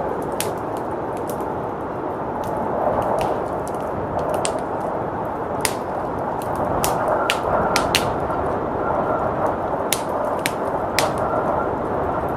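Wood fire crackling in a fireplace, with sharp irregular pops and snaps, over a steady blizzard wind.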